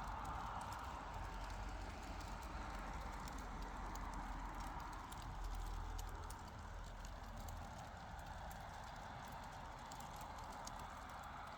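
Faint, irregular crackling: many small pops and clicks over a steady hiss, a sound likened to a campfire crackling.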